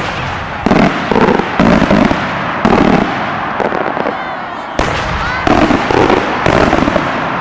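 Multi-break aerial firework shells bursting overhead in a string of about eight booms, each trailing a short rumble. A brief rising whistle sounds about five seconds in.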